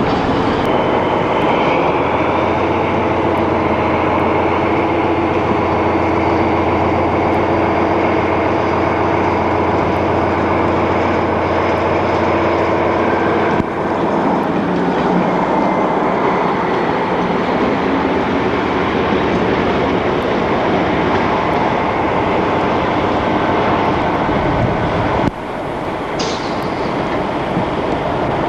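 A passenger train's coaches roll past on the rails with a steady low hum. About halfway through, the sound gives way to a diesel locomotive running as it moves past. Near the end there is a brief high squeal.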